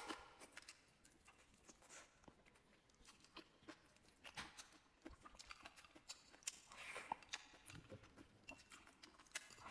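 Near silence, with faint, scattered wet mouth clicks and smacks of a person chewing a mouthful of rice and leafy greens.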